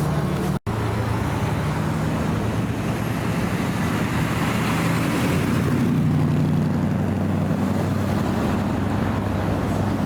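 Car engine running amid street traffic noise, its low hum shifting slightly in pitch, with the sound dropping out briefly about half a second in.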